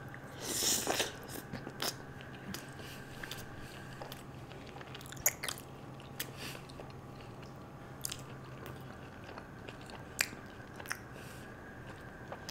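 Close-miked biting and chewing of murg methi malai chicken curry with butter naan: a louder bite about half a second in, then soft chewing with scattered sharp mouth clicks. A low steady hum runs underneath and stops about nine seconds in.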